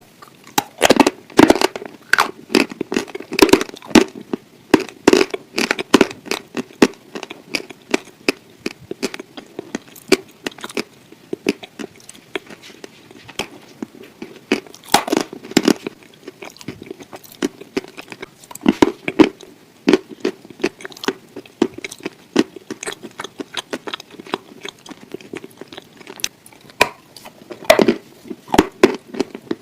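Grilled chicken being eaten close to the microphone: irregular clusters of crackling bites, tearing of the meat and chewing.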